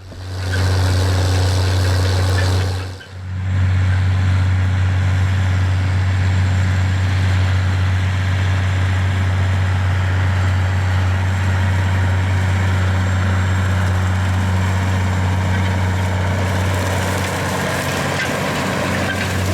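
John Deere 9420's 12.5-litre diesel engine running steadily under load as the tractor pulls a vertical tillage disk through the field, a constant low drone with broad mechanical noise over it. The sound dips briefly about three seconds in.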